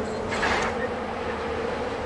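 Diesel train running with a steady buzzing drone, and a short hiss about half a second in.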